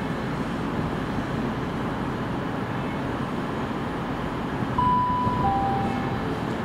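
Steady rumble of a train running at a railway station platform. About five seconds in, two short steady tones sound, a higher one followed by a lower one.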